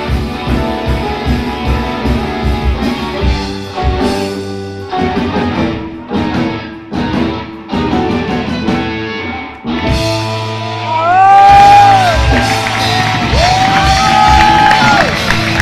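Rock band playing live in a hall. Partway through, the band plays a run of stop-start hits with short breaks between them. It then moves into long, bending held notes over a steady low drone.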